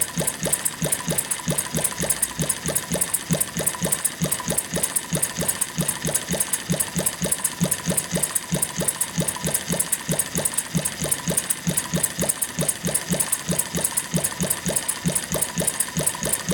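Retrol HM-01 model engine running on propane, its exhaust beating steadily and evenly at about four beats a second.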